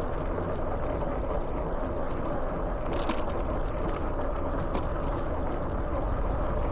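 E-bike riding over a rough, potholed path: a steady whine from the bike over low wind rumble on the handlebar microphone, with the bike rattling and a few sharper knocks about three and five seconds in as it jolts over holes.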